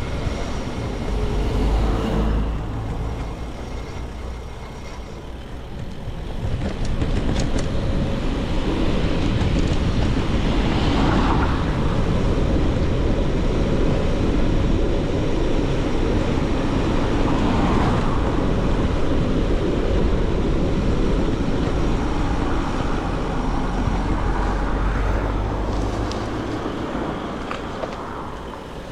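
Steady rushing of wind and tyre noise while riding an e-bike on the road, louder from about six seconds in and easing off near the end as the bike slows.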